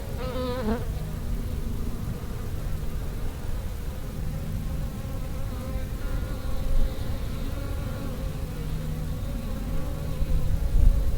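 Bees buzzing in a steady, slightly wavering drone. A short, higher wavering sound comes right at the start.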